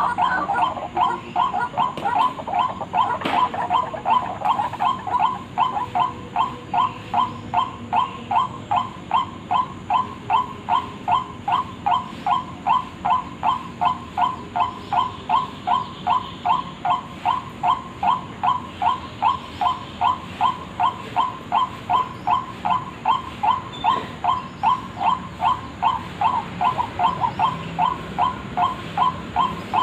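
White-breasted waterhen (ruak-ruak) call, a short note repeated steadily about three times a second, played as a lure call for the bird.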